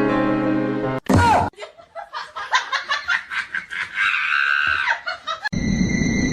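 Background music that cuts off about a second in, followed by a person laughing in quick repeated pulses, with a higher-pitched squeal near the end.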